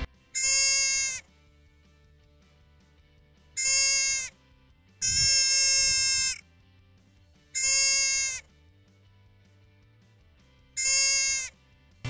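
Deer bleating five times: high, steady-pitched calls, each about a second long, the middle one longest, with quiet gaps between.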